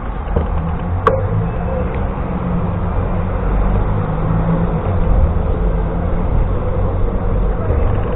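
Steady low rumble of wind buffeting the microphone and tyre noise on a moving bicycle, with a single sharp click about a second in.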